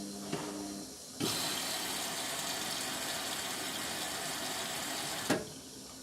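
Indesit MTWC71252WUK washing machine's water inlet valve clicking open about a second in, water rushing into the machine with a steady hiss for about four seconds, then the valve clicking shut: the machine topping up with water mid-cycle.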